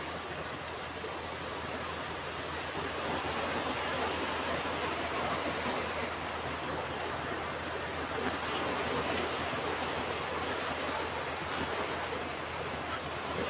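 Ocean surf washing onto a beach: a steady rush of breaking waves that swells and eases gently.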